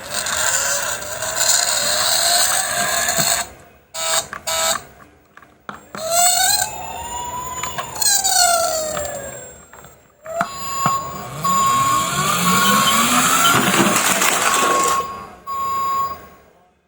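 Siren-like electronic wailing that rises and falls in pitch, mixed with hissing noise. Near the end a steady beeping tone comes and goes, and the sound cuts off suddenly.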